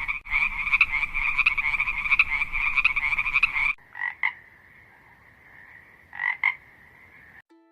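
Frogs calling: a dense chorus of rapid, pulsing croaks that stops abruptly a little past halfway. It gives way to a fainter steady high trill with two short double calls.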